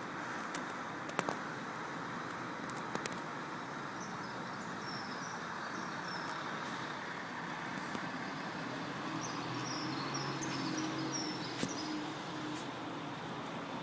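Diesel coach engine running steadily, its low hum growing a little stronger about two-thirds of the way through. Birds chirp briefly twice, and there are a few sharp clicks.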